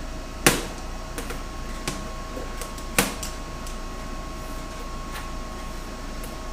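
Two sharp knocks, about half a second in and again about three seconds in, over a steady hum with a faint whine: metal parts and tools being set up for MIG welding, with the welding itself not yet under way.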